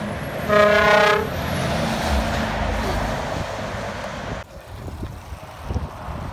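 Truck air horn giving one short steady blast about half a second in, followed by the truck passing by, its rushing noise fading away about four seconds later.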